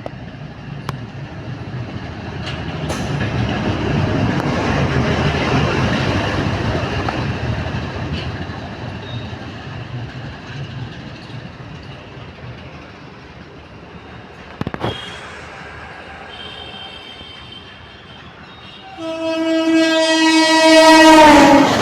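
An Indian Railways train running past: a rumble of wheels and carriages that swells, is loudest about four to seven seconds in, then fades. Near the end a loud train horn sounds, and its pitch drops as it passes.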